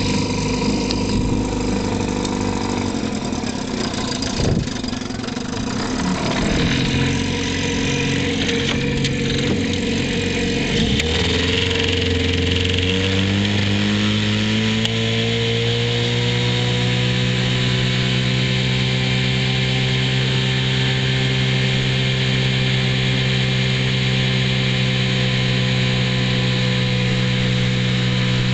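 Outboard motor running unevenly at low speed, then throttled up about eleven seconds in, its pitch rising over a few seconds and holding steady at a higher speed. A single brief knock sounds about four seconds in.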